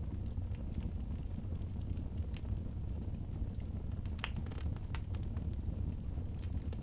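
Wood fire burning in a fireplace: scattered sharp crackles and pops over a steady low rumble, with a louder pop about four seconds in.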